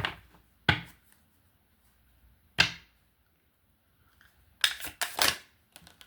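Tarot cards being handled and slapped down on a table: a handful of separate sharp slaps, with a quick cluster of them about five seconds in.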